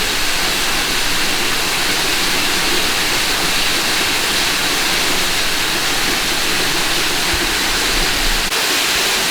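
Waterfall splashing down onto rock and water: a loud, steady rush of falling water.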